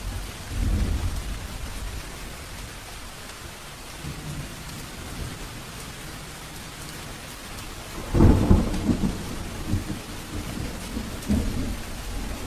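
Steady rain with thunder. A low rumble comes about half a second in, and a louder peal breaks about eight seconds in and rolls on in several surges for a few seconds.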